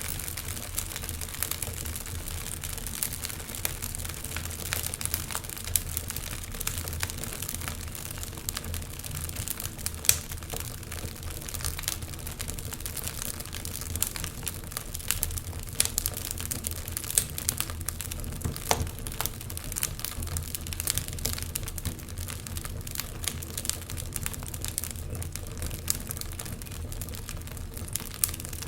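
Wood fire crackling, with frequent irregular small pops and snaps over a low steady rumble; one sharper pop about ten seconds in.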